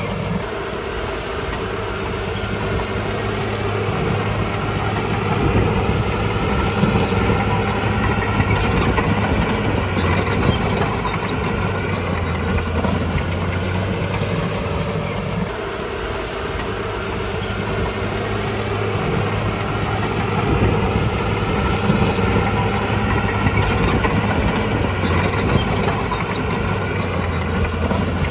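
Diesel engine of heavy earthmoving machinery running steadily, its note shifting a few times, with short bursts of metallic clatter about ten seconds in and again near the end.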